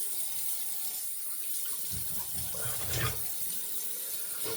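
Water tap running steadily into a sink, an even hiss of flowing water.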